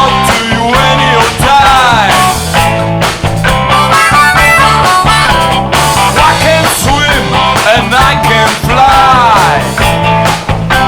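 Blues-rock band playing an instrumental passage: a lead line of bent, sliding notes over a steady bass line and drums.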